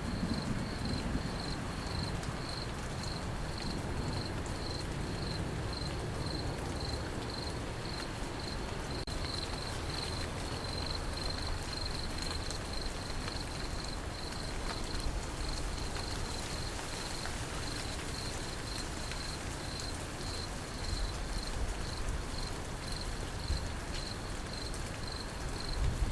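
Crickets chirping in an even, steady pulse over a soft, constant rain hiss. In the first second or so, the low rumble of a passing thunder roll dies away.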